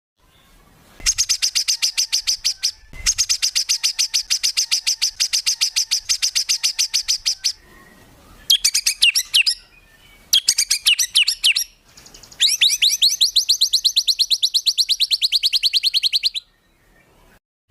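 Songbird "tembakan" song for bird training: five bouts of rapid, evenly repeated sharp notes, about ten a second. The last and longest bout falls slightly in pitch.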